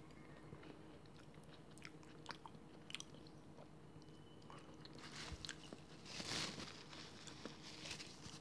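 Faint chewing of soft, ripe peach flesh close to the microphone, with scattered small mouth clicks and a louder moment a little past six seconds.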